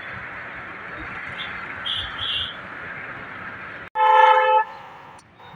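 Steady road noise of a moving car, with one loud vehicle horn blast lasting about half a second, about four seconds in.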